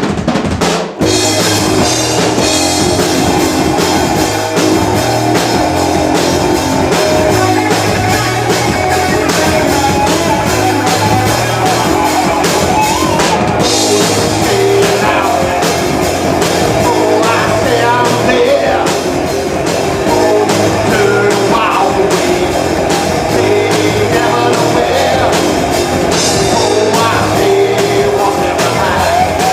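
Live rock band playing: drum kit keeping a steady beat under electric guitar, with a voice singing in places. There is a brief break in the sound about a second in.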